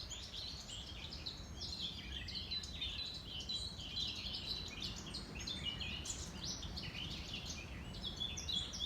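Songbirds singing without a break, a dense stream of high chirping notes, over a faint low rumble.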